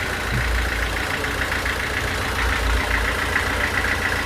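An engine running steadily at idle: a low rumble with a rapid, even pulsing higher up.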